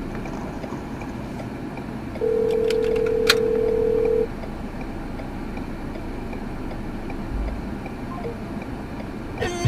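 Steady road and engine noise recorded from inside a moving car. A little over two seconds in, a single steady tone sounds for about two seconds.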